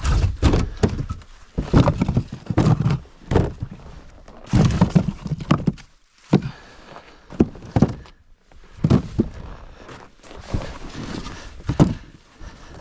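A string of irregular thuds and knocks, the sound of gear and cargo being handled and shifted on a sled-towed wood wagon.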